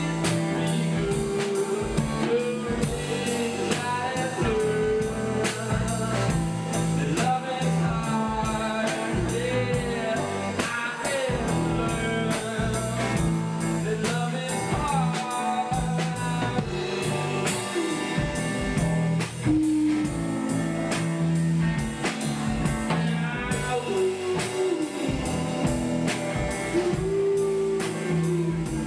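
A rock band playing a song: a lead vocal sung over guitar, bass and a drum kit with a steady beat.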